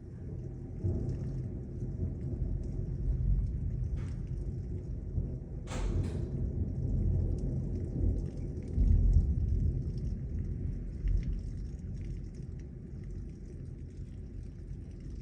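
A long roll of thunder: a deep rumble that swells about a second in and eases off near the end, over the steady hiss of heavy rain. There is one short sharp click about halfway through.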